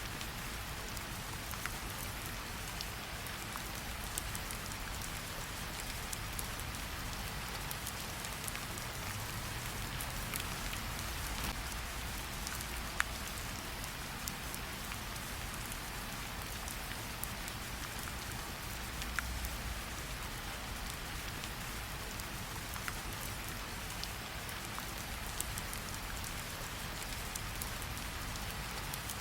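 Steady rain pattering over a low rumble, with a campfire crackling beneath it: many small ticks and a couple of louder pops along the way.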